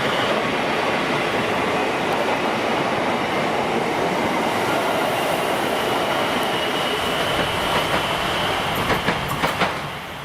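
Suburban electric train running on the rails: a steady rolling noise with a faint high wheel squeal, then a quick run of sharp clicks near the end as the sound drops away.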